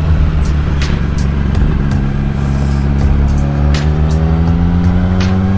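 Motorcycle engine running under way, its pitch rising gradually as it accelerates through the second half, with scattered sharp clicks over it.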